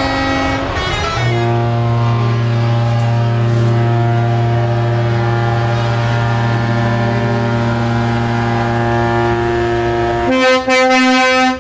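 Air horns on a Scania truck sounding one long, loud chord for about nine seconds, then a higher horn in a few short blasts near the end.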